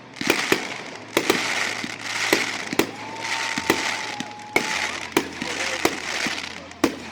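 Aerial fireworks exploding: a rapid series of sharp booms, with crackling showers between the bangs.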